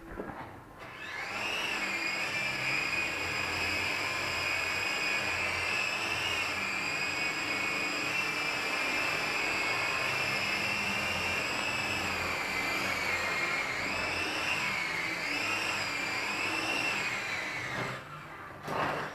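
Toy RC helicopter's small electric motors and rotors spinning up to a steady high whine that wavers a little with the throttle, then winding down. A brief knock comes near the end.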